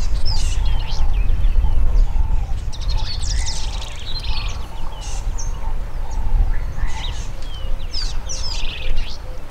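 Wild birds chirping and calling in many quick, high sweeping notes over a steady low rumble that is strongest in the first three seconds.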